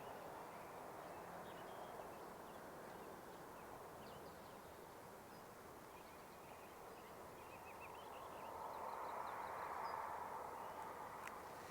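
Faint outdoor ambience: a steady rushing background that swells for a couple of seconds near the end, with faint, scattered bird chirps including a quick run of short notes about seven seconds in.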